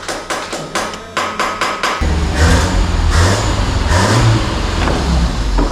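1983 Honda Civic's 1.5 L EM1 four-cylinder engine cranking on the starter with a rapid even clicking, then catching about two seconds in and running, its revs rising and falling.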